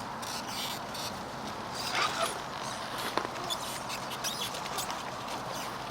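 Rain falling: a steady hiss with many small drops ticking irregularly close to the microphone.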